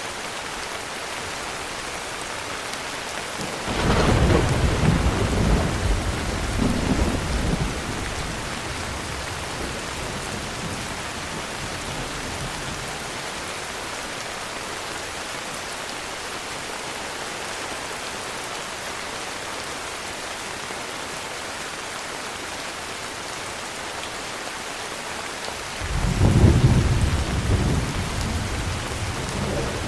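Steady heavy rain with two rolls of low thunder: one starts about four seconds in and rumbles for several seconds, the other begins near the end.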